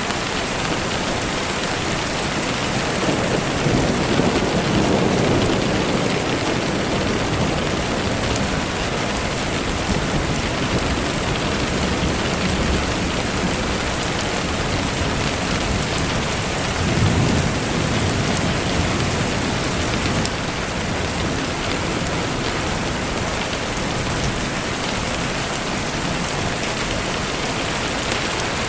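Steady rain falling, with low rumbles of thunder swelling twice, a few seconds in and again about halfway through.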